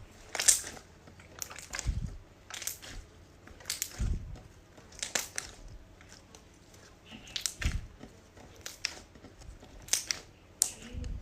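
Slime being squeezed and pressed, giving short crunchy crackles about once a second, with a few soft low thumps in between.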